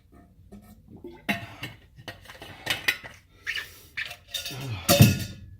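Clatter of dishes and cutlery being handled and knocked together, as when fetching a drink in a kitchen: a run of irregular clinks and clanks, the loudest near the end.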